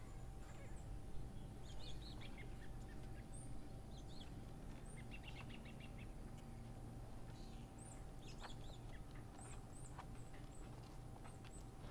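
Small birds chirping now and then, short high chirps scattered throughout with a quick run of them about halfway, over a steady low hum.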